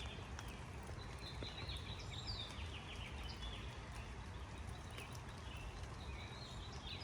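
A small bird singing: a run of quick, short falling notes about two seconds in, with fainter calls after, over a steady low outdoor rumble.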